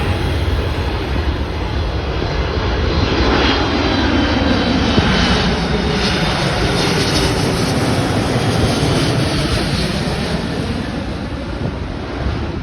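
Boeing 777 jet engines passing on landing, the noise swelling to a peak with a falling pitch as the airliner goes by, then fading away.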